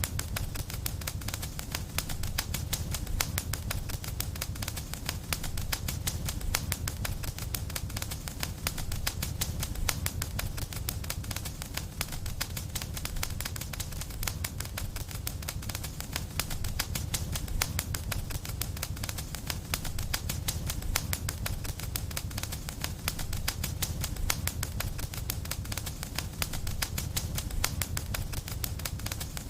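Wood fire crackling in a fireplace: rapid, dense pops and snaps over a steady low rumble.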